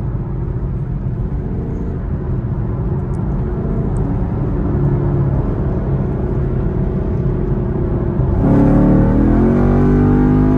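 Camaro SS's 6.2-litre V8 running steadily at highway cruising speed, heard from inside the cabin. About eight seconds in, the engine note jumps louder and climbs in pitch as the car accelerates hard.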